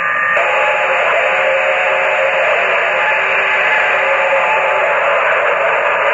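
Steady CB radio static hiss from a keyed-up transmission, heard through the radio's speaker, with faint steady tones under the hiss.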